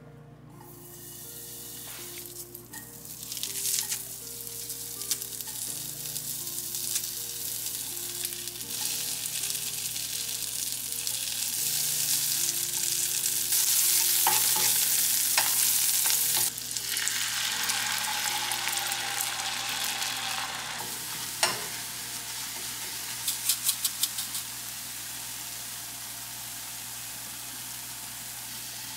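Food sizzling and frying in a pan while a wooden spatula stirs it. The sizzle builds to its loudest a little past the middle, drops suddenly, then carries on quieter, with a few sharp clicks in the later part.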